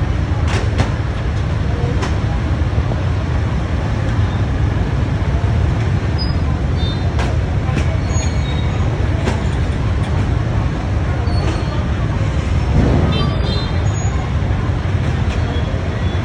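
Steady low rumble of road traffic, with a few short clicks and brief high tones scattered through.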